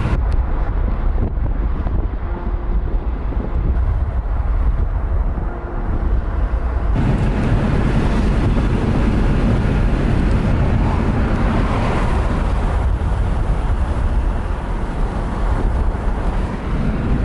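Steady road and engine noise of a moving car, with wind rumbling on the microphone. About seven seconds in, the noise becomes fuller and brighter and stays so.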